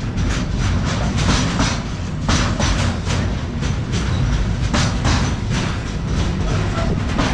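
Freight train passing, its wagon wheels clacking over rail joints in a quick, uneven rhythm over a steady low rumble.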